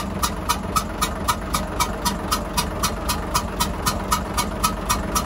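Hyundai 6D16 six-cylinder diesel engine idling with a sharp, regular tick about four times a second. The mechanics suspect the noise comes from a failed valve blowing air back into the intake.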